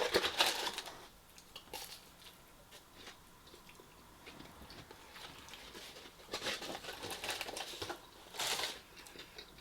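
Close-up eating and food-handling sounds: short crinkling and crunching noises from takeaway food being picked up and bitten, loudest at the start and again in a cluster after about six seconds.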